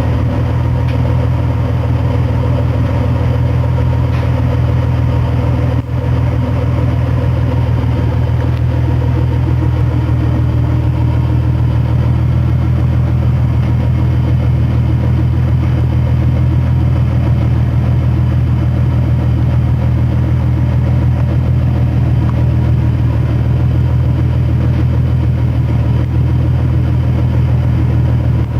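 2005 Ford Mustang's supercharged 4.0-litre V6 idling steadily through JBA shorty headers and a JBA cat-back H-pipe exhaust, a low, even exhaust note with no revving.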